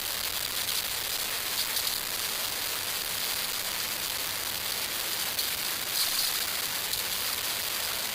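Steady rush of river water pouring over a lock and dam, an even hiss that does not let up.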